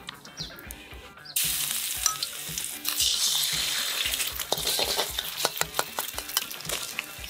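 An egg dropped into hot oil in a wok starts sizzling loudly and suddenly about a second and a half in. From about four seconds on, a metal wok spatula scrapes and breaks up the frying egg, giving sharp scraping ticks over the sizzle.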